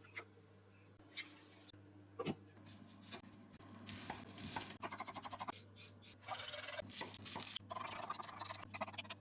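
Hand food preparation in the kitchen: a few scattered knocks and clicks, then quick runs of scraping, rasping strokes from about four seconds in.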